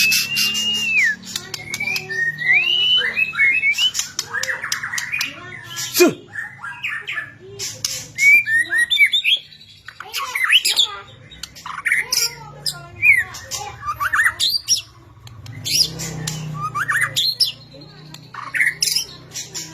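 White-rumped shama (murai batu) singing fast and continuously in its frenzied 'mabok' state: whistled notes sliding up and down, broken by sharp clicks and harsh rattles.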